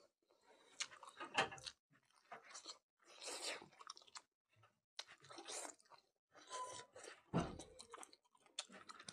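A man chewing a mouthful of mutton curry and rice, in short, separate bursts of wet mouth sounds with brief silences between.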